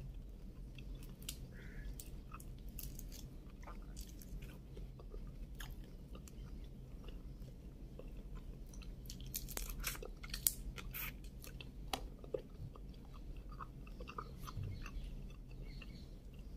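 Close chewing and crunching of cooked shrimp, mixed with light crackling clicks as the shrimp shells are peeled apart by hand. The clicks come thickest about ten seconds in.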